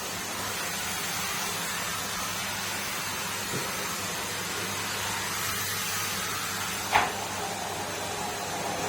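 Numatic Henry cylinder vacuum cleaner running steadily, a constant whooshing hum, with a single sharp knock about seven seconds in.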